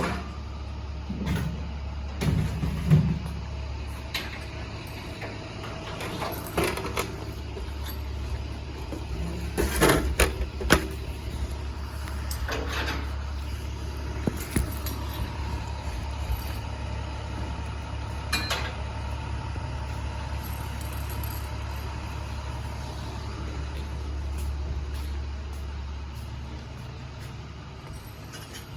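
Box truck engine idling with a steady low hum, and scattered knocks and clunks now and then.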